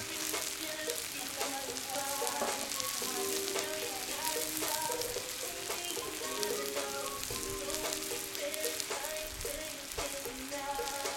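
Meat and shredded carrots sizzling in hot oil in a cast-iron kazan, a steady dense crackle of frying, with music playing over it.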